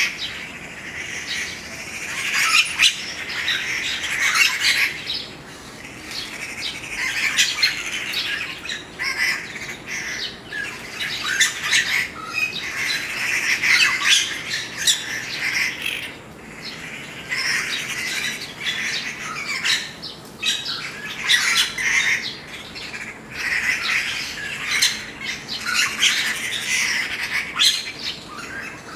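Birds calling, with harsh squawks and chirps in bursts of a few seconds and short lulls between them.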